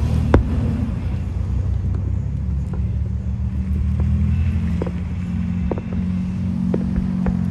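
A vehicle engine running with a steady low rumble that shifts slightly in pitch about two-thirds of the way through, with a handful of short sharp pops scattered over it.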